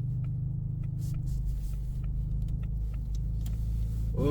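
Cabin drone of a 2024 Ford Mustang EcoBoost's 2.3-litre turbocharged four-cylinder and its tyres running on snow, heard from inside the car, steady and low, with faint regular ticking.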